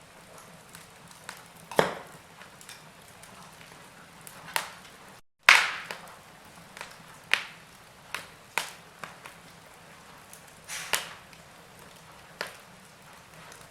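Wood fire in a fireplace crackling: irregular sharp pops and snaps of varying loudness over a faint steady background. About five seconds in the sound drops out completely for a moment, and the loudest pop comes right after.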